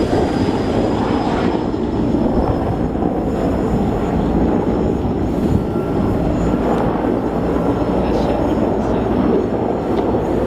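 Sikorsky S-64F Air-Crane helicopter running nearby: a steady, loud, deep rumble of rotor and turbine noise.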